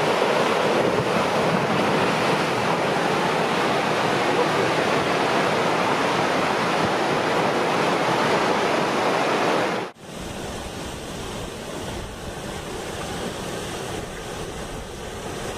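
Waterfall rushing steadily. It cuts off abruptly about ten seconds in, and a quieter, steady rushing noise with a low rumble takes its place.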